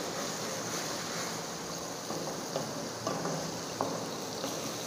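Spice masala sizzling in hot oil in a metal pot as a wooden spatula stirs it, with a few light knocks of the spatula against the pot from about two seconds in. The masala is being fried on raised heat until the oil separates from it.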